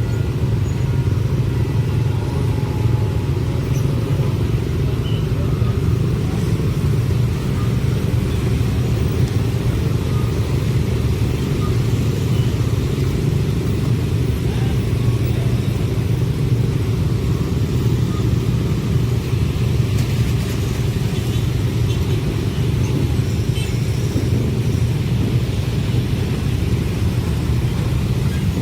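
A passing train: a steady, loud low rumble of wheels on rails that runs unbroken for the whole stretch.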